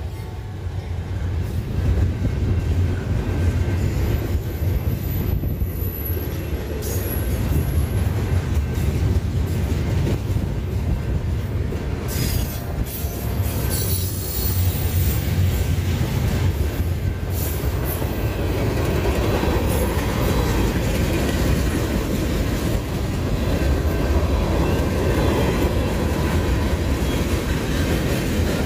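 Freight train rolling past: a steady low rumble of cars over the rails, with a thin, high wheel squeal about five seconds in.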